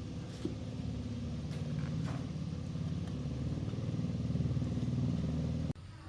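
Piston air compressor running steadily with a low, pulsing hum, cutting off suddenly near the end.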